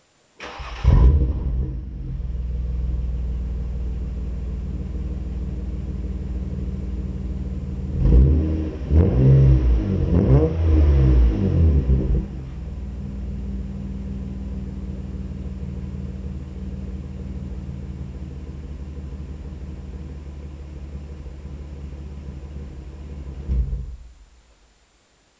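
Nissan Maxima engine heard through a new 2.25-inch catback exhaust: it starts with a loud burst, settles to a steady idle, is revved several times in quick succession, then idles again and shuts off near the end.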